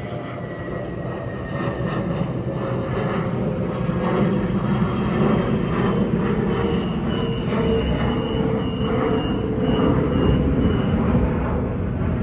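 A Waratah double-deck electric train humming steadily while it stands at a platform. About six and a half seconds in, a run of short high beeps, about three a second for some four seconds, sounds as the door-closing warning, and the doors shut.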